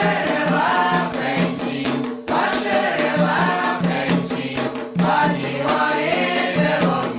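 Devotional chant for Xangô, sung voices over hand drums keeping a steady pulse, with a rattle shaking along.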